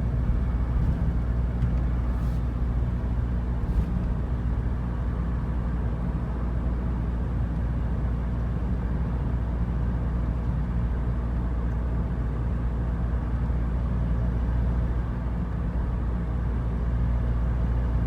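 Steady engine and road noise of a pickup truck cruising at an even speed of about 80–90 km/h, held back to save fuel.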